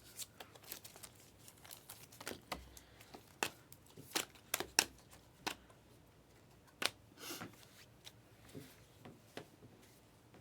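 Trading cards being handled and flipped through: an irregular run of soft clicks and snaps as the cards are slid past one another, with a short rustle about seven seconds in.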